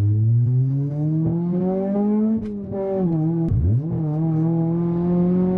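Car engine heard from inside the cabin as the car accelerates, its pitch climbing steadily. The revs dip briefly about two and a half seconds in, then drop sharply and pick up again about a second later, as at a gear change, before climbing slowly once more.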